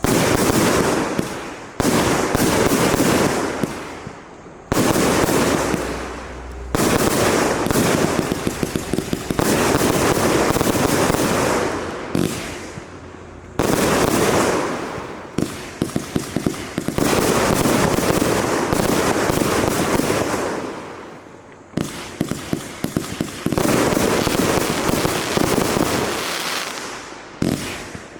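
SFF 4016 Gold Waterfall firework firing in repeated volleys. Each volley starts suddenly with a loud hissing rush full of crackling pops, then fades over a few seconds before the next one fires, about every two to four seconds.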